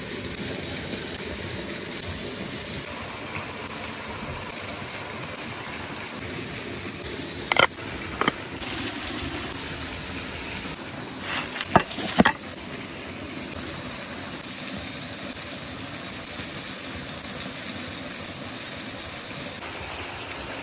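Steady hiss of meat cooking outdoors, with a few sharp clicks and knocks about eight seconds in and again about twelve seconds in.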